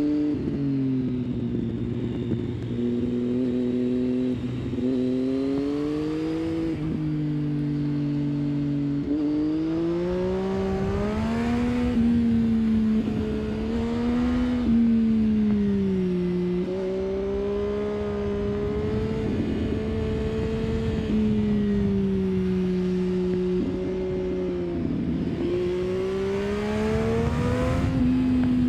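Triumph Street Triple 675's inline three-cylinder engine through an aftermarket 3-2 exhaust, pulling the bike along, its pitch rising and falling with several sudden steps.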